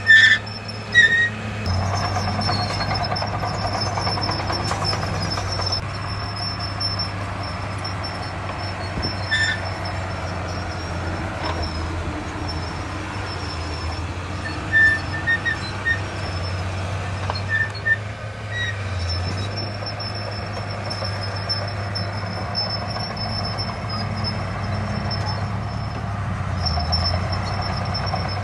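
Heavy diesel earthmoving machinery running steadily, with short high squeaks now and then.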